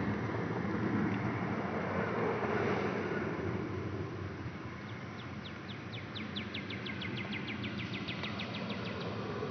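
A steady low hum runs underneath. From about five seconds in, a bird gives a rapid trill of short, high, falling chirps, about five a second, which stops shortly before the end.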